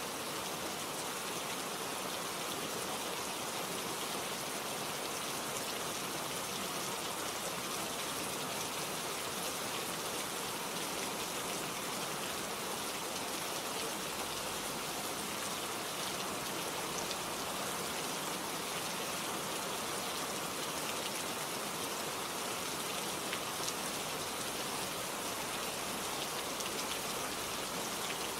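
Steady rain falling, with individual drops heard as faint scattered ticks over an even hiss.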